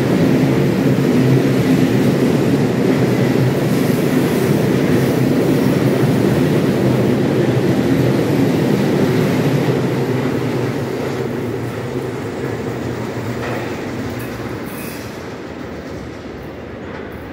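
A train passing close by, running loud and steady for about ten seconds and then fading steadily as it moves away.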